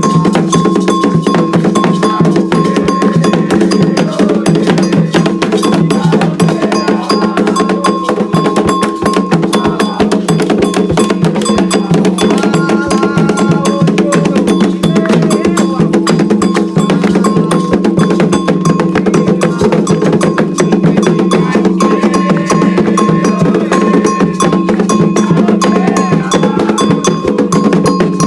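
Candomblé ritual percussion: an agogô bell and drums playing a fast, steady, unbroken rhythm.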